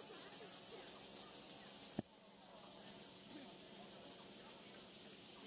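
Insects chirping in a steady, high-pitched chorus. About two seconds in there is a sharp click, after which the chorus drops a little and carries on.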